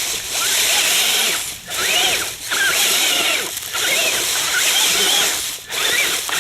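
Electric motor of a radio-controlled off-road truck whining in a series of short throttle bursts, the pitch rising and falling with each burst.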